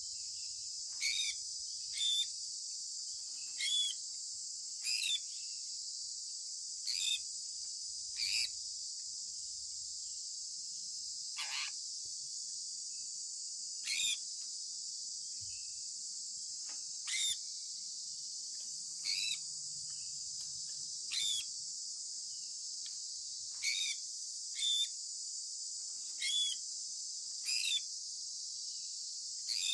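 Sun conure parrot giving short chirps that drop in pitch, repeated every second or two and sometimes in quick pairs, over a steady high-pitched hiss.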